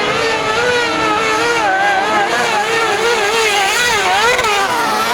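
Kart cross buggy engines running hard at high revs, several at once, their pitch rising and falling constantly as they accelerate and back off.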